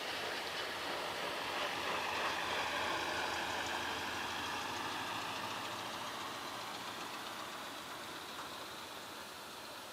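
Cessna 172R Skyhawk's four-cylinder piston engine and propeller running as the plane passes. The sound peaks about two seconds in, then fades away steadily.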